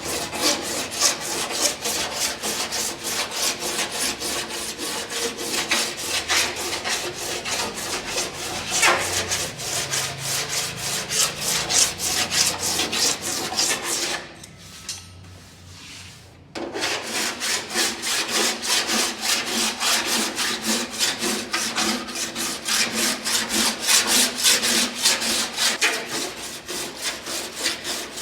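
Steel body file drawn in quick back-and-forth strokes over repaired car door sheet metal, a steady run of rasping scrapes that stops for about two seconds a little past halfway, then carries on.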